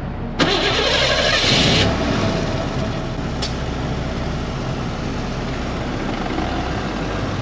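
A car engine revs with a sudden burst about half a second in, its pitch rising, then settles into steady running.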